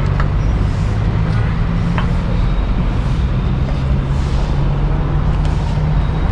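Motor vehicle engine running steadily, a low hum over road and traffic noise; the hum's pitch shifts slightly about two and a half seconds in.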